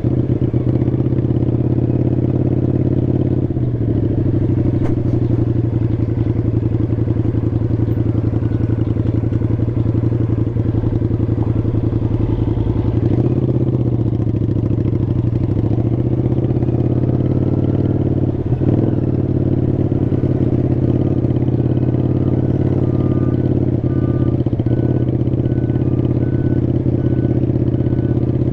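Motorcycle engine running steadily while riding, its note shifting a few times as the speed changes.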